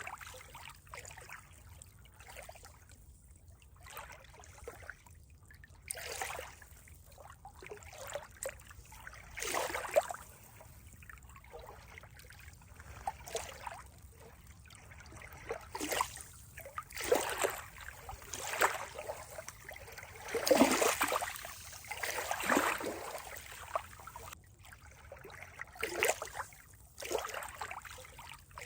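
Water trickling and gurgling in irregular small splashes, loudest about two-thirds of the way through.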